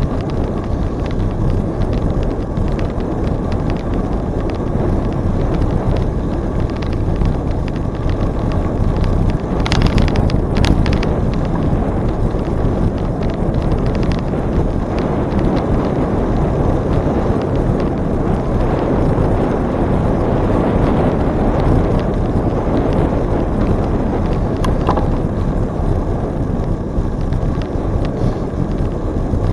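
Steady wind rushing over the microphone of a moving bicycle, mixed with tyre noise from the trail. A few short clicks or rattles come about ten seconds in and once more near the end.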